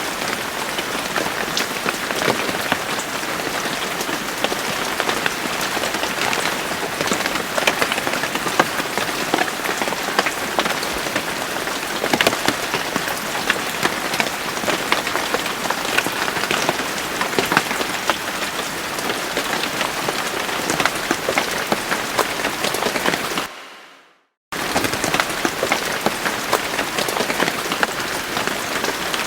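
Steady rain falling on a surface, an even hiss dotted with many individual drop ticks. Near the end it fades out to about a second of silence, then starts again abruptly.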